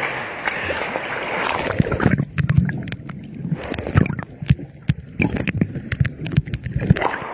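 Sea water splashing close to the microphone for about two seconds, then sloshing and lapping with irregular clicks and low knocks of water and handling on the phone.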